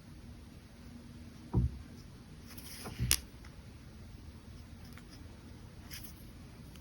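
Brush pen strokes faintly scratching on paper, with two dull knocks about one and a half and three seconds in, the second with a sharp click.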